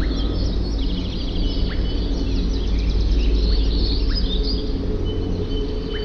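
Several small birds chirping and twittering at once, with quick trills, over a steady low rumble.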